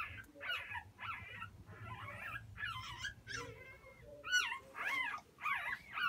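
Newborn pit bull puppies whimpering and squeaking, many short high-pitched cries overlapping, growing louder and busier about four seconds in.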